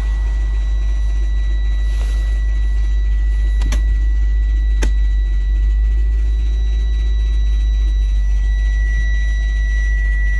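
Subaru Exiga 2.0 GT STI running with a deep rumble and a steady high-pitched whine that grows louder near the end, with two sharp clicks about four and five seconds in. The whine is the sign of a gearbox fault that leaves the car unable to drive forward or reverse.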